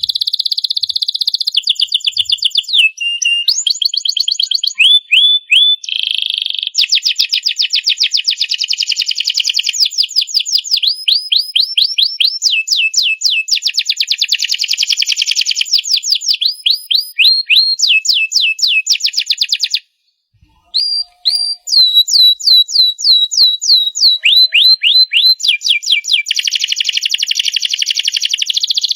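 Domestic canary singing a long, fast song of rolling trills and runs of quick falling whistled notes, breaking off briefly about two-thirds of the way through.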